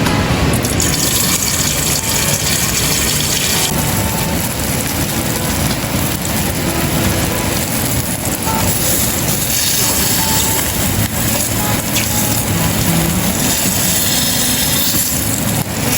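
Steady rushing water, an even dense hiss that runs without a break.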